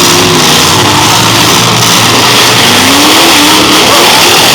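Demolition derby car engines running and revving over a dense, loud wash of noise. One engine's pitch rises briefly a little past halfway.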